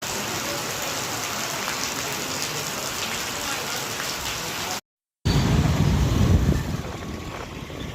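Heavy rain falling steadily with an even hiss. After a brief dropout about five seconds in, a loud low rumble of thunder lasts about a second and a half, then the rain continues more quietly.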